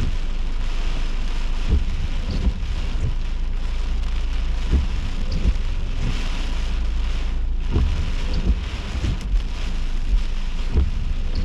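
Steady rain in a thunderstorm, with wind and irregular low thumps scattered throughout.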